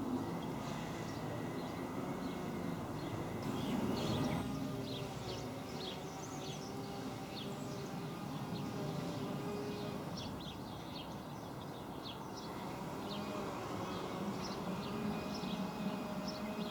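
Small birds chirping in quick short calls again and again over a steady low rumble, which swells briefly about four seconds in.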